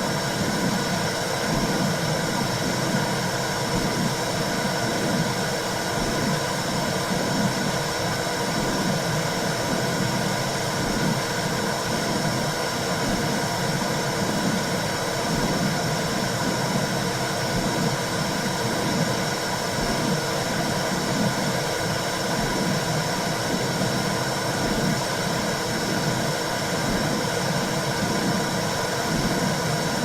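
Womb sound for soothing a baby: a steady white-noise hiss with a low whooshing pulse repeating about once a second.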